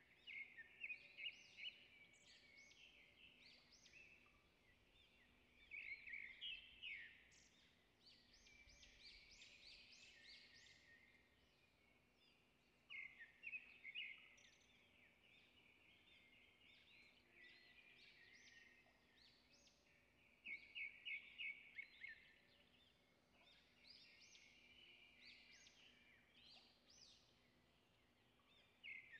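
Faint birdsong: a small songbird singing short trilled phrases, about one every seven seconds, over a faint steady hum.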